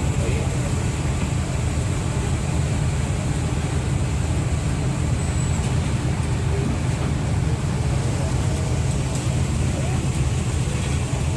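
Steady low rumble of a ferry's engines running at an even pitch, with faint voices of people nearby.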